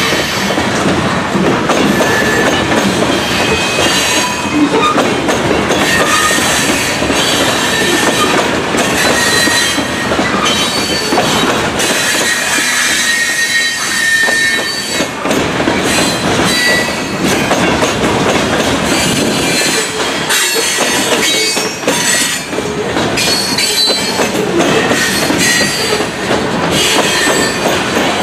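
Loaded grain hopper cars of a freight train rolling past, the wheels clattering on the rails, with brief high-pitched wheel squeals coming and going.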